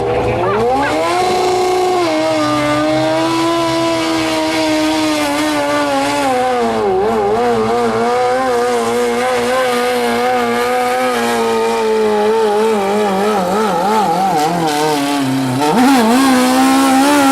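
Modified pulling lawn tractor's motorcycle engine run hard at high revs. It climbs in pitch at the start, holds, sags and wavers as the engine pulls down under load, then revs up again near the end.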